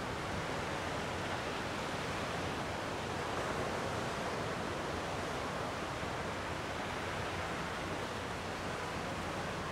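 Gentle ocean waves washing on a rocky shore, a steady even wash of surf without distinct breaks.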